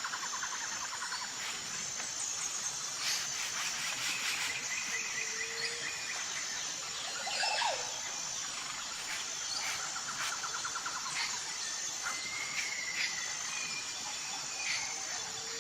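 Tropical forest ambience: a steady high insect drone with pulsing trills, over scattered bird calls, chirps and rapid trilled phrases.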